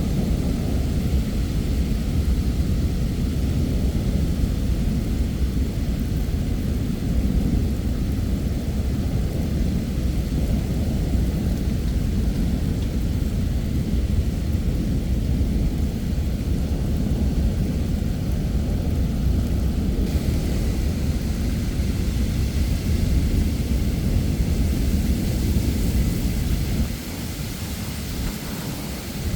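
Thunderstorm: steady heavy rain under a continuous low rumble of thunder. The rain hiss grows brighter about two-thirds of the way in, and the rumble drops away briefly near the end.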